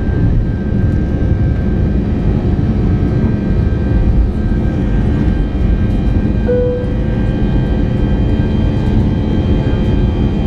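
Steady engine and airflow noise inside the cabin of an Airbus A319-131 with IAE V2500 engines, with steady engine tones running through it. A brief tone sounds about six and a half seconds in.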